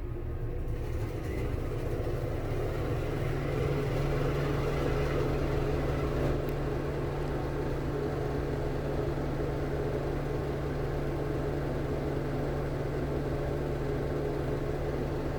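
Cook commercial exhaust fan running with a steady low hum and airflow noise, getting a little louder over the first few seconds and then holding steady.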